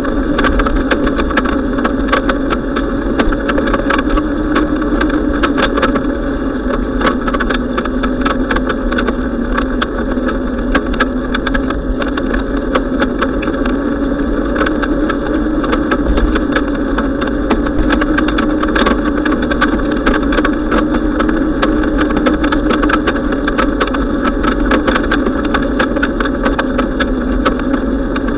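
Steady noise of a bicycle ride, with a slightly wavering hum and many small clicks and rattles throughout.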